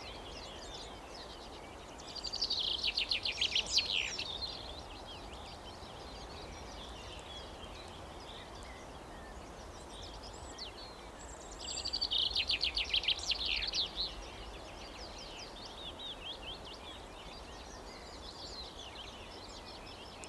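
A songbird singing twice, each a rapid trilled song of quick repeated high notes lasting about two seconds, with fainter chirps between and after, over a steady outdoor background hiss.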